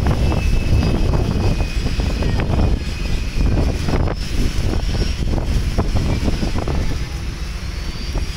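Strong wind buffeting the microphone: a loud, continuous low rumble with irregular gusts and a faint high whistle above it.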